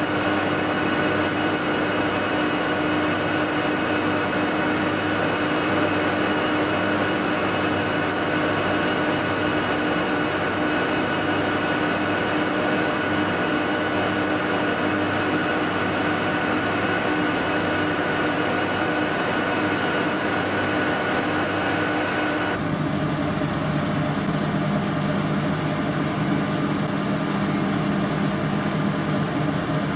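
A steady machine noise with several fixed humming tones, its pitch changing abruptly about three quarters of the way through.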